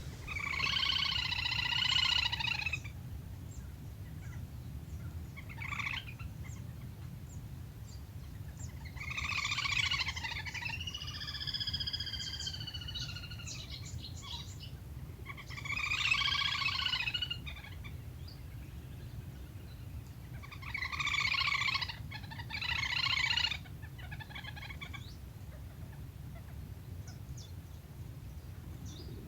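Lesser whistling duck (le le) calls: about six bursts of rapid, high whistling notes a few seconds apart, some gliding up and down. A steady low hum runs underneath.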